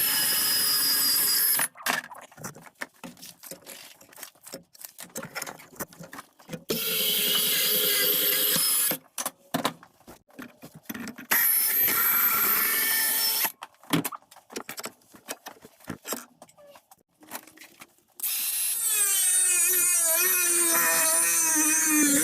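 Milwaukee power tool cutting a steel bracket piece, run in four bursts of a few seconds each, with the motor pitch wavering under load in the last and longest run. Short knocks and clatter of the metal being handled come between the bursts.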